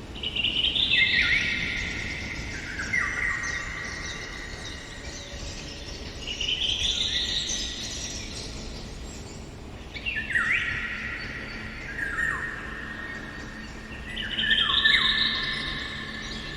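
Songbirds singing in a forest: phrases of quick whistled notes that step down in pitch, repeated every few seconds.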